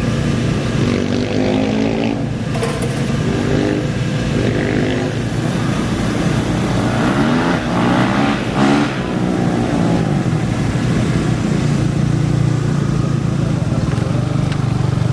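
Off-road racing engines at a start line: a steady low engine drone, with an engine revving up in rising pitch about seven to nine seconds in.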